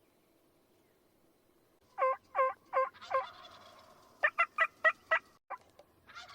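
Wild turkey calling: a string of four yelps, then a Merriam's gobbler gobbling with a rolling, echoing tail, then a quicker run of short yelps. Another gobble starts near the end.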